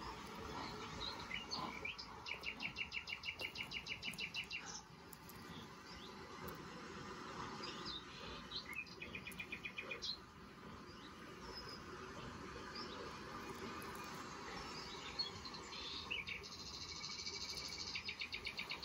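A bird singing in the background: three rapid high trills, each lasting about two seconds, with short chirps between them.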